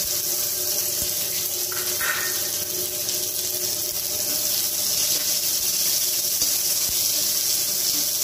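Small onions (shallots) sizzling in hot oil in a pan, a steady hiss as they sauté.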